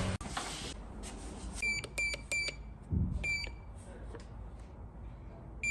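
Short electronic beeps on a single high tone: three quick ones about a second and a half in, then another about a second later. A low thump falls between them.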